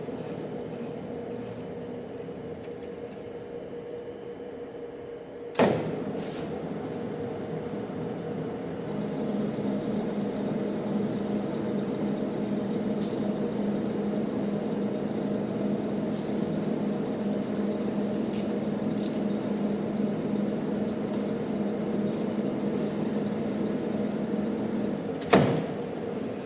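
Manual metal lathe running with a steady mechanical hum. A sharp knock comes about five and a half seconds in. From about nine seconds a high steady whine and a stronger hum join, until another sharp knock near the end.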